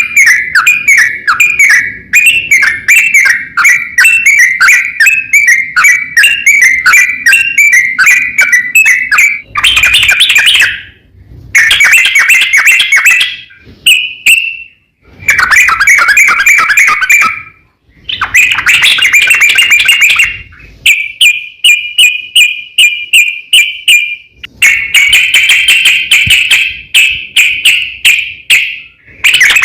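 Yellow-vented bulbul (trucukan) singing its long rolling song: fast runs of repeated notes, about four a second, in phrases broken by short pauses. A territorial call to rival males.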